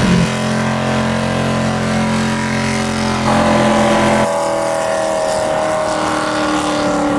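Car engines running, with steady pitched engine notes. The sound changes abruptly twice, and later an engine note slowly rises in pitch.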